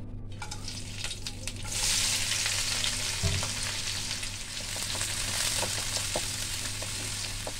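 Whole spices crackling lightly in hot mustard oil, then about two seconds in sliced onions and green chillies go into the pan and a loud sizzle takes over as they are stirred with a spatula. A single low knock a little after the middle.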